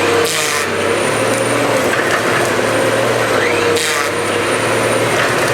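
Cut-to-length timber harvester working a tree: its engine runs steadily under a faint high whine, with a short burst of wood cracking and rubbing about half a second in and again about four seconds in as the head strips limbs.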